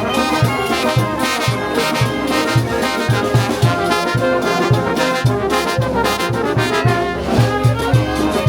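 Peruvian brass band playing a festival tune: trumpets and trombones carry the melody over a steady low drum beat.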